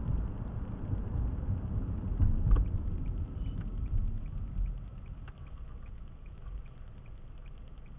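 Car driving, heard from inside the cabin: a low road and engine rumble that eases off after about five seconds as the car slows, with one sharp knock about two and a half seconds in and faint light ticking.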